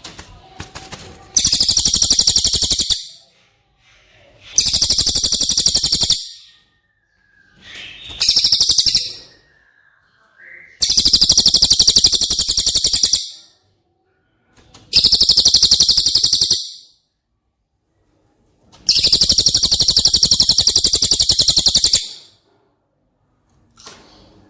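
A cililin bird singing six rapid, high-pitched buzzy trills, each lasting one to three seconds, separated by short pauses.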